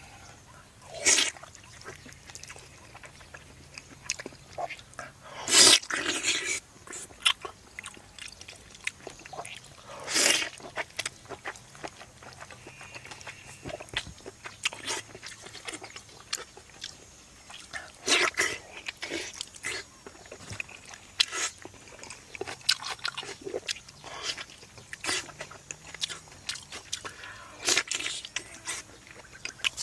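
Close-miked eating: wet chewing, lip smacking and slurping in irregular bursts, with a few louder sharp smacks every several seconds.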